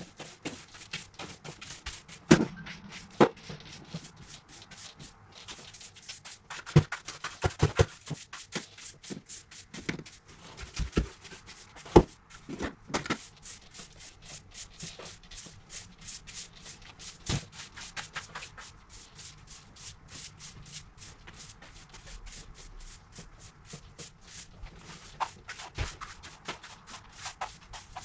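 Objects being handled and moved about during cleaning: irregular knocks and clicks with rubbing and rustling, a few sharper knocks standing out about two, seven and twelve seconds in.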